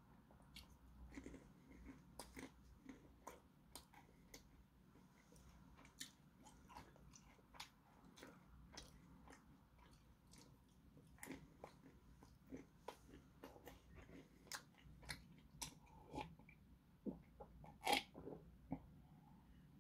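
Close-up chewing of walnut pieces: quiet mouth sounds with many small sharp crunches. Near the end comes a louder sound as beer is sipped from a glass.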